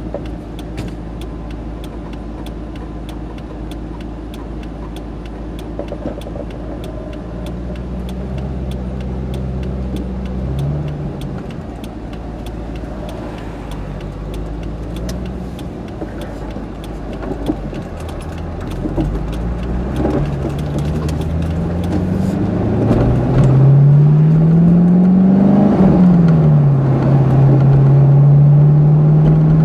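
C5 Corvette Z06's LS6 V8 idling, then pulling away: the engine note rises and dips, climbs steadily under acceleration, drops with an upshift near the end and holds steady at cruise.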